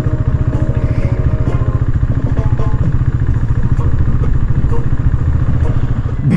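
Motorcycle engine running steadily, heard up close: an even, rapid firing pulse with most of its weight in the low end.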